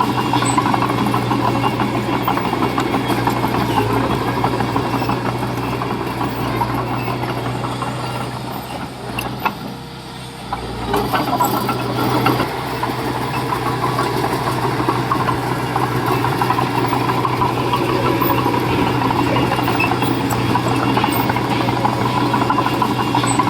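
Diesel engine of earthmoving machinery running steadily under load. It eases off about eight seconds in and picks back up around eleven seconds.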